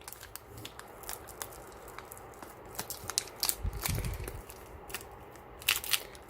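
Foil Pokémon booster pack wrapper crinkling and crackling in the hands, with irregular sharp crackles throughout and a dull low bump about four seconds in.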